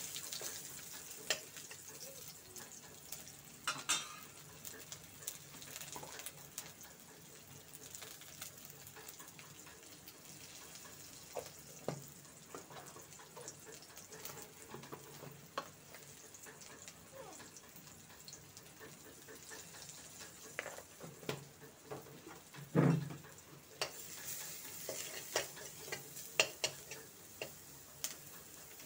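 Onions sizzling as they fry in oil in a kadai, with a metal spoon scraping and clicking against the pan now and then. A louder dull knock comes late on, and the sizzling grows stronger near the end.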